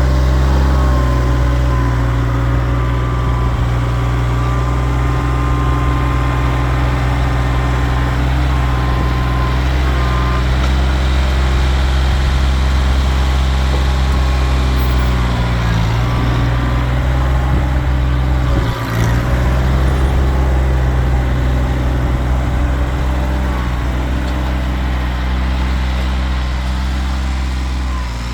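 Kioti tractor's diesel engine running steadily at working revs, with a fainter higher whine that wavers in pitch. The engine note dips briefly about two-thirds of the way through.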